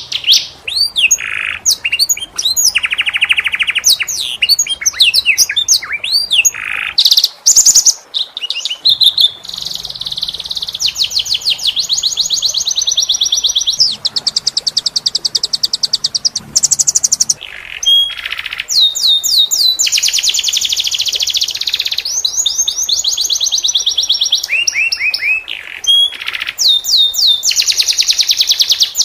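Domestic canary singing a long, unbroken song of fast trills. Runs of rapidly repeated notes are mixed with quick rising and falling whistled sweeps, and a few lower trills come in between.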